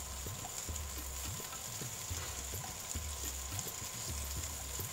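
Seekh kebabs sizzling as they fry in butter in a nonstick frying pan, a steady hiss with scattered small clicks and pops as they are turned with chopsticks.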